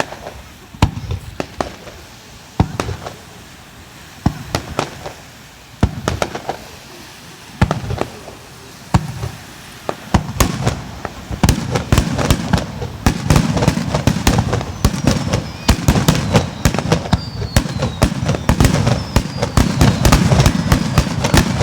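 Aerial fireworks bursting: separate booms every second or so at first, then from about halfway a rapid, dense barrage of bangs and crackles.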